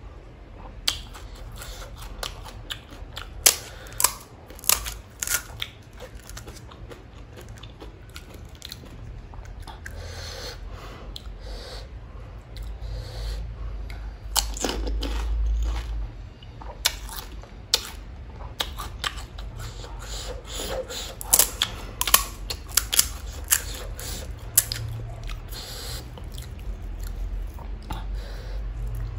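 Close-miked chewing of pani puri: crisp hollow puri shells cracking and crunching between the teeth, with sharp crunches coming in clusters.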